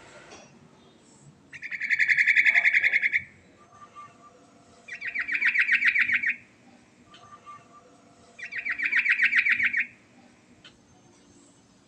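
Yellow-vented bulbul (trucukan) singing in long rolling trills: three rapid pulsing trills of about a second and a half each, evenly spaced, with faint softer notes between them.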